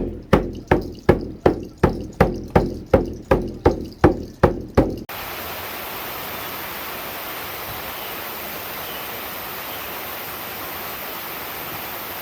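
Evenly spaced percussive strikes, about three a second, each with a short ring, stop abruptly about five seconds in. A steady rushing of water follows.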